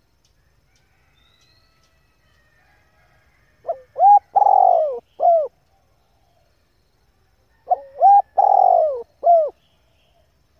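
Female spotted dove cooing: two phrases about four seconds apart, each a few short arching coos around a longer, louder middle coo.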